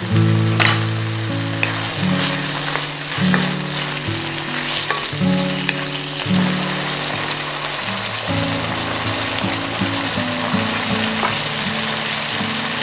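Chicken and onion sizzling in hot oil in a wok, stirred with a wooden spatula that makes scattered scraping clicks. Light background music runs underneath.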